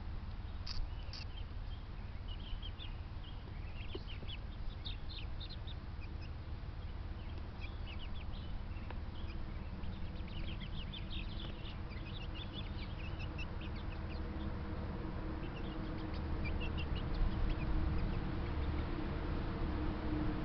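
Birds in a backyard bird yard chirping in short, high calls scattered through, over a steady low rumble that grows louder in the last few seconds.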